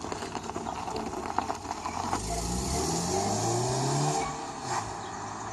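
Fiat Abarth 595's turbocharged 1.4-litre four-cylinder on its stock exhaust, accelerating: the engine note climbs in pitch and gets louder from about two seconds in, then eases off just after four seconds. A few sharp clicks come first.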